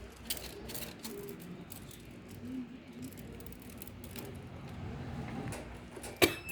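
Lato-lato clacker toy's hard plastic balls being knocked about by kittens: scattered light clicks, then one sharp clack with a short ring near the end.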